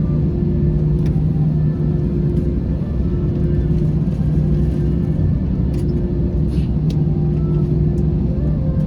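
Airliner cabin noise on the ground after landing: the engines run with a steady drone and low rumble under a constant hum. A few faint clicks come around six to seven seconds in.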